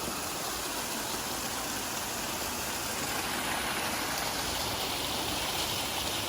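Rushing water: a steady, even rush with no breaks or changes.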